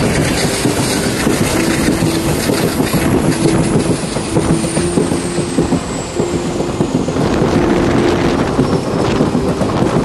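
Passenger train running at speed on its track, wheels clattering steadily over the rails, with a faint high squeal that slides down in pitch through the middle.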